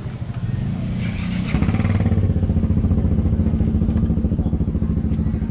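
Motorcycle engine running at low revs with a fast, even pulsing, growing louder about a second and a half in. A brief hiss sits over it just before.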